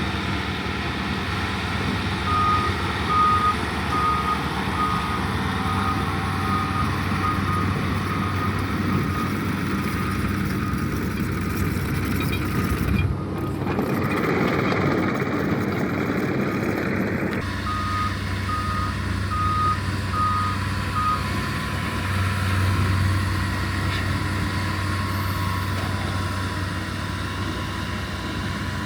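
Earthmoving machine's engine running steadily while its backup alarm beeps, a little under two beeps a second, in two runs: one from about two seconds in to about seven seconds, and a second one shortly after the middle. The engine sound changes abruptly midway.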